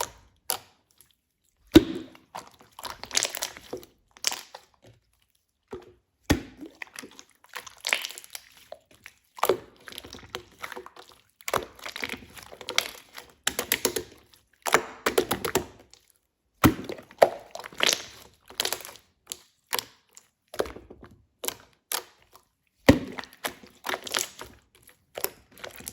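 Irregular close-up handling noises: sharp knocks and clacks mixed with short crinkling, crunching bursts, with brief silent gaps between them.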